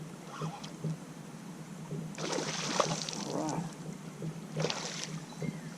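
Water splashing in two bursts, about two seconds in and again near the end, as a hooked smallmouth bass fights at the surface beside a kayak.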